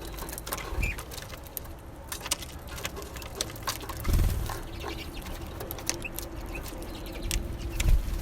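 Small songbirds feeding at a winter bird feeder: a busy run of sharp little clicks and taps from pecking at seed, with a few brief soft calls. A couple of low thumps come about four seconds in and near the end.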